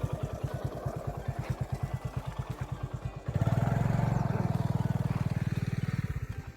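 An engine running with a steady, rapid low chugging pulse, getting louder about three seconds in and easing off near the end.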